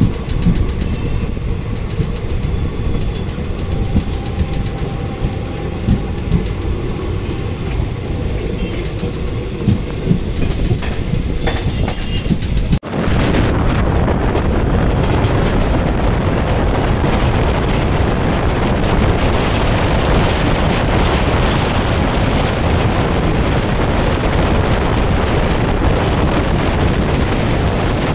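Train running on the track, its wheels clicking over rail joints. About 13 seconds in, the sound cuts suddenly to a louder, steady rush of wind and running noise.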